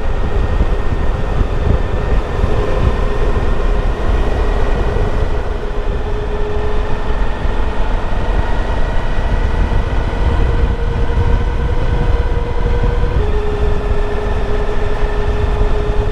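Suzuki V-Strom DL1000's V-twin engine running at a steady cruise under heavy wind rumble, with a steady tone whose pitch drops slightly about thirteen seconds in.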